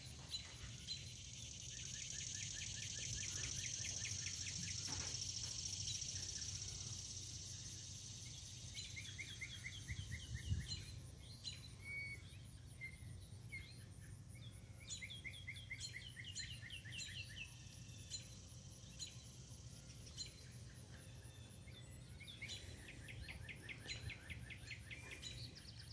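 Birds singing: repeated fast trilled phrases, one after another, with a high steady hiss for the first six or seven seconds and a low steady rumble underneath.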